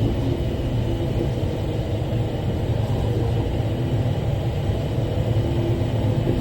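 Diesel engine of a Bell articulated rock truck running steadily, heard from the cab as a continuous low rumble.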